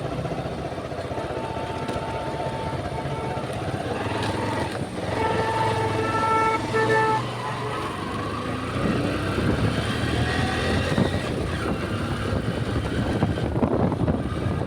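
Road traffic with vehicle horns honking: one held horn note about a second in, then a run of short honks around five to seven seconds in, over the steady noise of engines.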